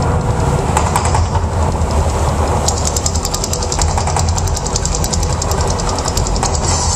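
Mirage volcano show's eruption effects: a loud, steady deep rumble, with rapid crackling joining in about three seconds in.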